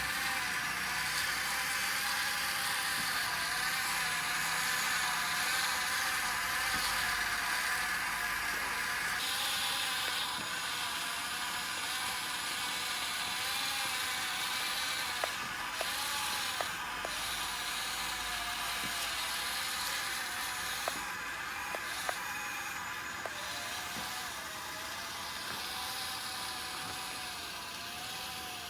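Small electric motors of a radio-controlled model excavator whining steadily, the pitch wobbling up and down as the load changes. A handful of sharp clicks come about halfway through.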